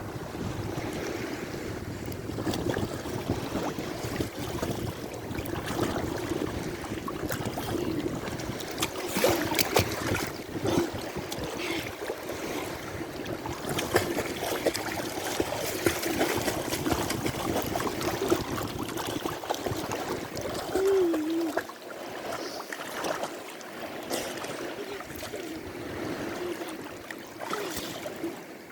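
Sea water lapping and splashing in irregular bursts, over a steady low hum.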